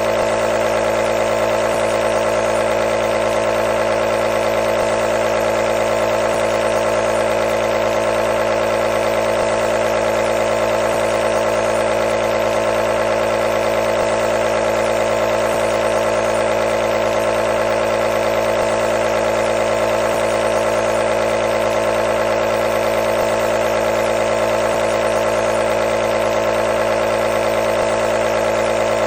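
Nebulizer compressor running steadily, a constant buzzing hum with no change in pitch or level.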